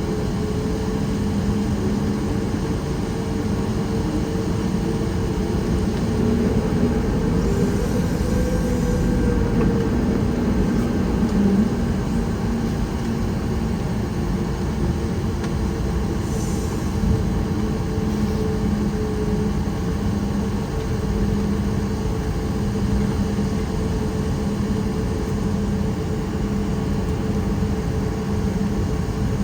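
Steady cabin noise inside a Boeing 737 MAX 8: a continuous rumble from its CFM LEAP-1B engines, with a low, slightly wavering hum.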